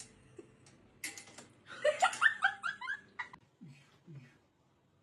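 A person laughing: a quick run of short giggles about two seconds in, followed by two short low sounds that drop in pitch.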